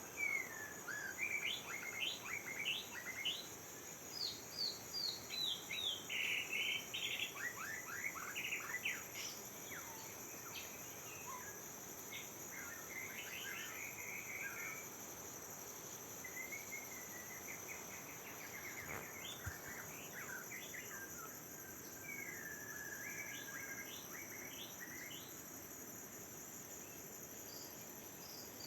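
A songbird singing in varied phrases of quick chirps and short whistles, busiest in the first ten seconds and thinning out towards the end. Behind it, crickets or similar insects keep up a steady high-pitched drone.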